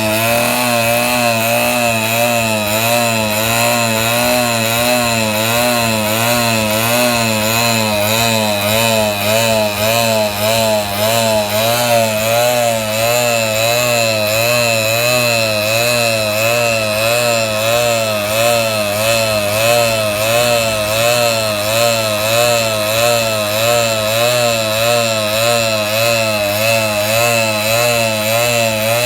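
Small dirt bike engine running at a steady speed, its pitch wavering up and down about twice a second.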